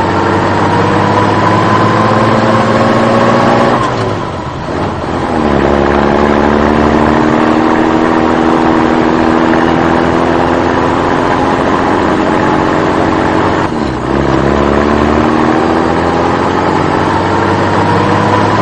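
Vehicle engine pulling under load, its pitch climbing slowly. The pitch and loudness drop briefly about four seconds in and again near fourteen seconds, then climb again, as when shifting up through the gears.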